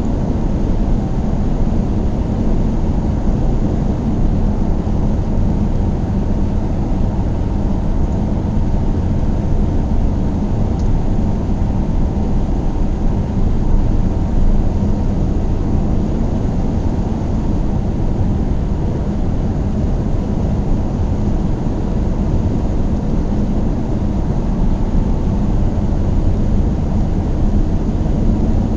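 A car driving at a steady speed: a constant low rumble of tyres on the road and engine noise, with a faint steady hum. Nothing changes in pitch or level.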